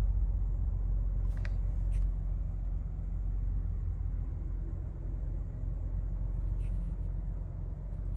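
2019 Ford Raptor's 3.5-litre twin-turbo EcoBoost V6 idling steadily, a low rumble heard from inside the cab, with a few faint clicks.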